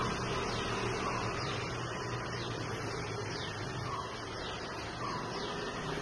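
Faint bird chirps, short falling notes repeated every half second or so, over a steady low background hum.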